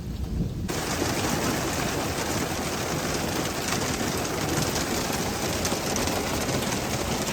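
Rain falling during a thunderstorm, heard as a steady wash of noise. Just under a second in it turns suddenly louder and brighter.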